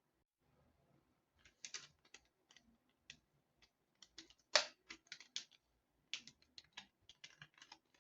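A quick, irregular run of light clicks and taps from small hard parts, the loudest one about halfway through.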